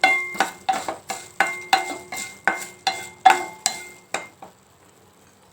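A spoon stirring coriander seeds and fenugreek as they dry-roast in a pan, knocking and scraping against the pan about three times a second with a short ringing note on each stroke. The stirring stops a little past four seconds in.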